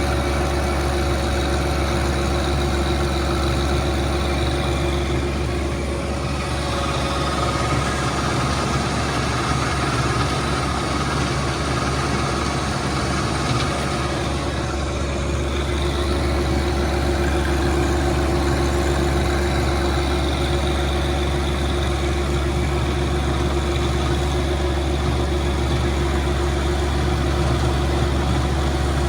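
John Deere 2025R compact tractor's three-cylinder diesel engine running steadily, driving a PTO rototiller as it churns up the ground of a trail.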